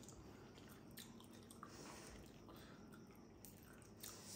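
Faint chewing and mouth sounds of people eating grilled fish, with a few small clicks scattered through.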